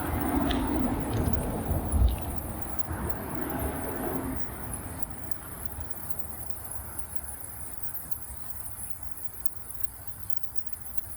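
Highway traffic rumbling on the overpass, loudest in the first few seconds and then fading, over a steady high chirring of insects.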